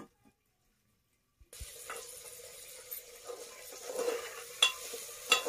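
Silent for about the first second and a half, then potatoes, peas and cauliflower sizzling as they fry in an aluminium pressure-cooker pot, with a metal spatula scraping and clinking against the pot as they are stirred; the sharpest clinks come near the end.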